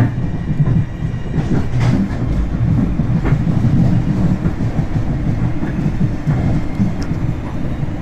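Commuter train running along the rails, heard from inside the car: a steady low rumble with a few faint clicks.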